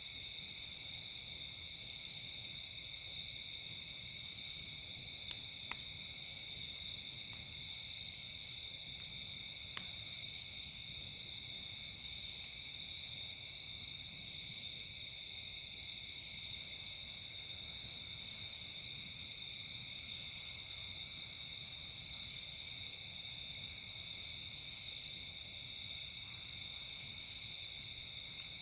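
Steady night chorus of crickets and other insects, with a higher, thinner buzz coming back every five seconds or so for a second or two each time. A few sharp crackles from the campfire, two close together about five seconds in and one near ten seconds.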